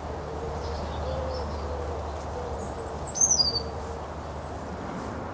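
Outdoor bird calls: a low call of short wavering notes repeats through the first four seconds. A sharp high call falls in pitch about three seconds in and is the loudest sound, over a steady low background rumble.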